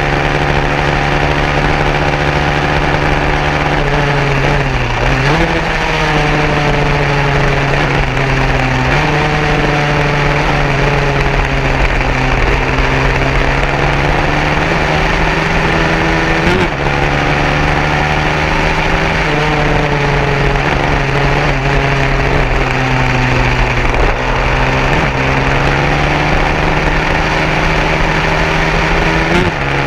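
150cc racing motorcycle engines running loud and steady, the pitch sinking slowly over several seconds and then jumping back up, about five times over the half minute.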